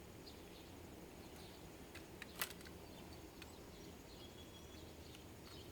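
Quiet background with faint high chirping and a couple of light clicks about two seconds in.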